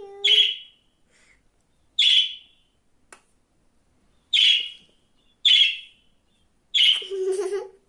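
Pet budgerigar giving five short, loud chirps, spaced a second or two apart.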